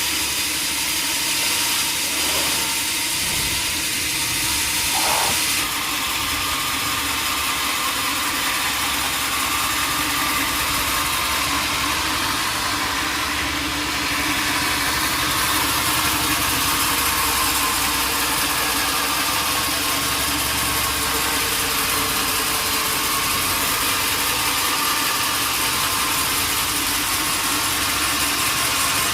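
Sawmill machinery running steadily: a constant mechanical din with a steady hum underneath.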